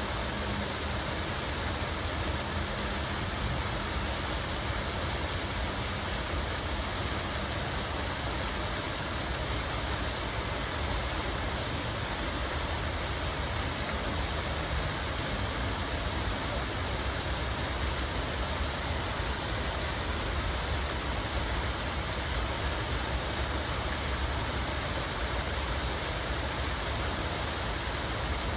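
Running water rushing steadily, an even hiss with a low rumble underneath.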